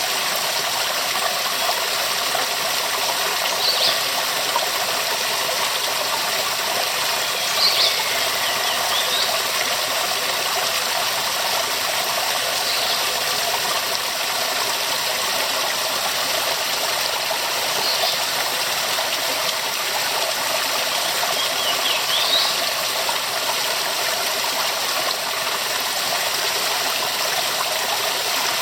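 Waterfall: a steady, dense rush of falling water, even throughout, with a few brief faint high chirps now and then.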